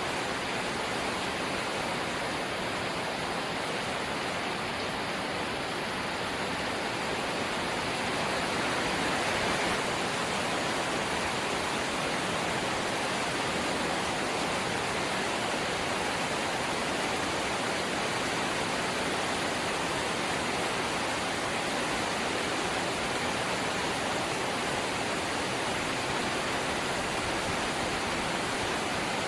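Light rain falling steadily, an even hiss that swells slightly about eight to ten seconds in.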